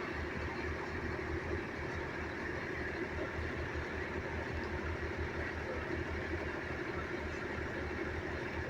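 A vehicle engine idling steadily, a low even rumble with no change in speed.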